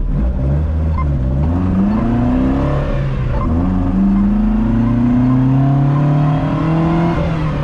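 Car engine accelerating hard: its note climbs for about three seconds, drops at a gear change, then climbs again through the next gear.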